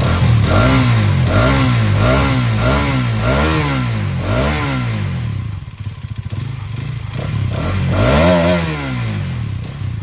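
Hero Karizma XMR's 210cc liquid-cooled DOHC single-cylinder engine revved in a run of about seven quick throttle blips, each rising and falling back. It settles to idle, then gets one bigger rev near the end before dropping back.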